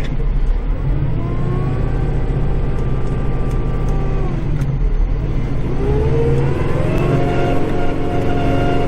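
Kubota compact tractor's diesel engine heard from inside the cab. It revs up just after the start, holds steady, drops back about four seconds in, then revs up again and holds.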